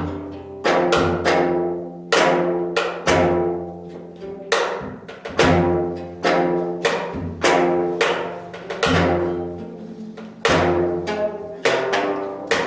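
Korean traditional zither music: sharply plucked or struck string notes about once a second, each ringing and dying away over a held low note.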